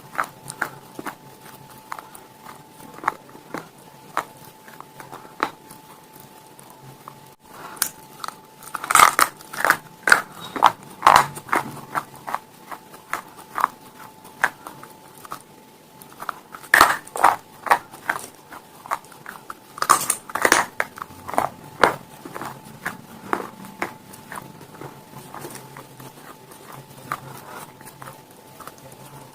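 Close-up bites and chewing of hard, brittle edible slate stone pieces: sharp crisp cracks and crunches, with two loud bursts of crunching, one about a third of the way in and another a little past the middle, and softer chewing between them.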